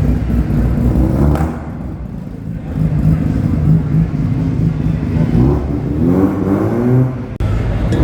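Muscle car engine running with a deep rumble, revved up and down a few times in the second half, with an abrupt change just after seven seconds.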